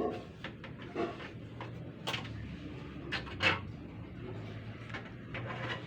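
Caged songbird making scattered short, sharp sounds, several brief chips and taps, the loudest about three and a half seconds in, over a low steady hum; no sustained rolling song yet.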